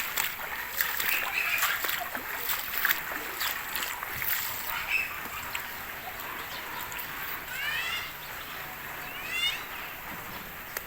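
Heavy rain and floodwater splashing over a flooded street, with many sharp splashes in the first half. Two short runs of rising chirps come near the end.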